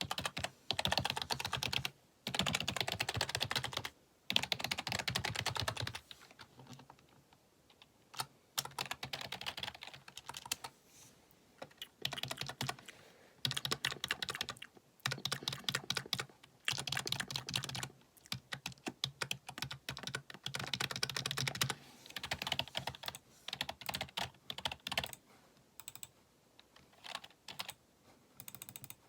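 Typing on a computer keyboard: fast runs of clacking keystrokes lasting a few seconds each, broken by short pauses.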